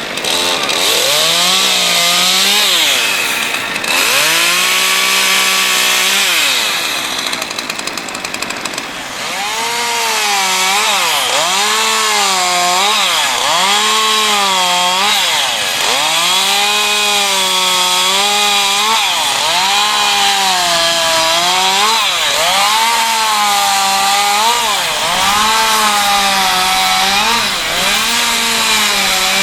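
Two-stroke chainsaw cutting into wood. It revs in short bursts at first, then runs on, its pitch dropping under load and recovering about once a second as it bites in and lifts out.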